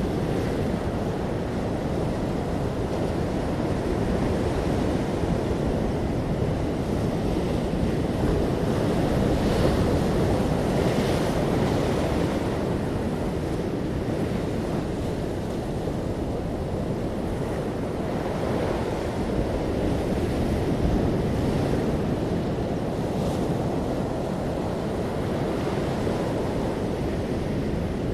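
Ocean waves breaking and washing ashore with wind, a steady low rush. Every so often a brighter hiss of surf swells up.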